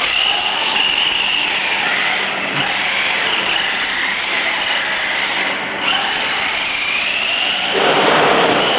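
RC minicar motors whining at high pitch, rising and falling as the cars speed up and slow down, over a steady hiss. It grows louder about a second before the end.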